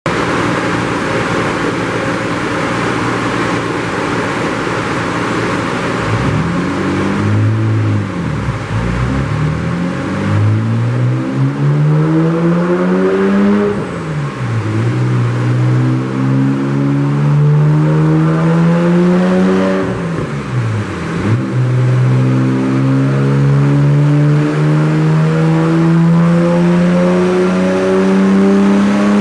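Nissan Skyline R32 GT-R's twin-turbo RB26DETT straight-six, tuned to about 450 hp at 1 bar boost, running on an all-wheel-drive Dynojet dyno. It runs steadily at first and blips up and down once. It then accelerates through the gears, with the revs climbing, dropping sharply at shifts about 14 and 21 seconds in, and climbing again more slowly in the last gear.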